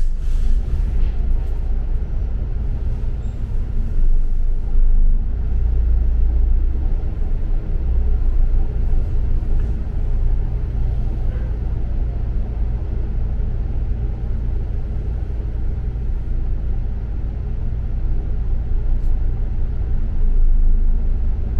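Double-decker city bus running, heard from inside the passenger cabin: a steady low engine and road rumble.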